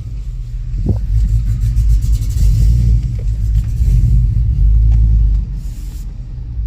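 2005 Chevrolet Tahoe's 5.3-litre V8 running rough with a loud, uneven low rumble as the throttle is opened; it falters and drops off about five and a half seconds in. This is the truck's stalling fault, which the mechanic takes for fuel starvation.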